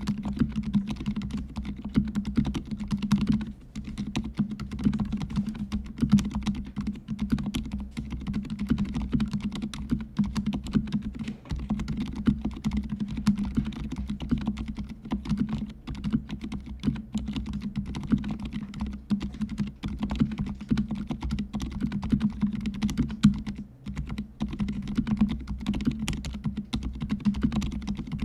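Continuous fast typing on a fully lubed mechanical keyboard with silent (low-noise) red linear switches: a steady stream of muted keystrokes with only momentary pauses.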